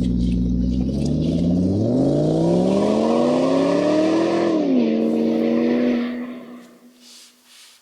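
Motor of an oil-film strength test rig running. Its whine rises steadily in pitch for about three seconds, falls back and holds, then dies away about six seconds in.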